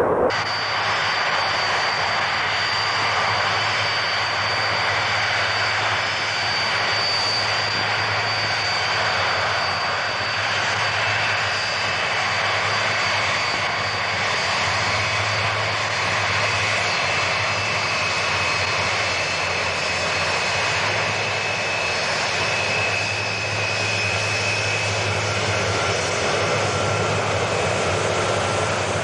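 Jet airliner's engines running steadily: a continuous rush with a thin, high whine held over it.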